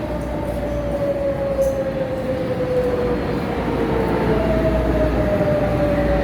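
Local passenger train running and slowing, with a rumble that grows louder and a whine that slowly falls in pitch, starting again higher a little past four seconds in.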